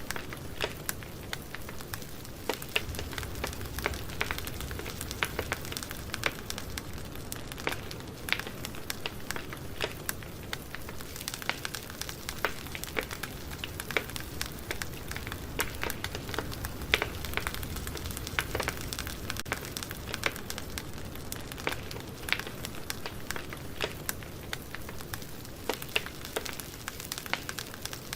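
Campfire burning, with the wood crackling and popping in irregular sharp snaps over a steady hiss and a low rumble of the flames.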